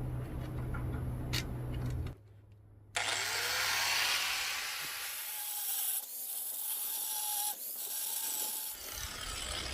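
Bench grinder grinding a small steel bushing spacer to shape: a steady rasping hiss of metal on the wheel, starting about three seconds in after a short silence. Before that there is a low hum with a few clicks.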